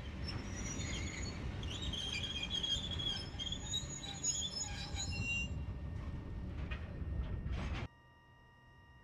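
Freight train of an ED45 electric locomotive and hopper wagons rolling slowly, a steady low rumble with high wheel squeals during the first five seconds or so. Near the end the sound cuts off suddenly to a faint steady hum.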